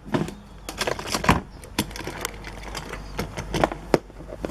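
A die-cast toy fire truck with a crane being handled and set down, making a string of irregular small clicks and light knocks from its metal and plastic parts.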